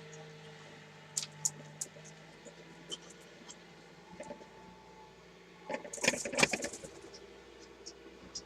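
Scattered sharp clicks and rustling, densest and loudest about six seconds in, over a faint steady hum.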